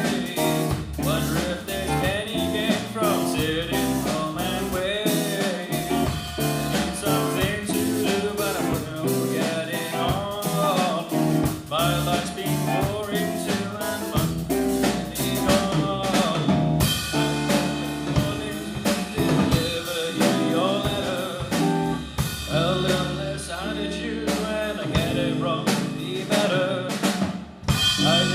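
A band playing a blues-rock song: drum kit with rimshots and bass drum under a melodic lead line, with a short drop in loudness near the end.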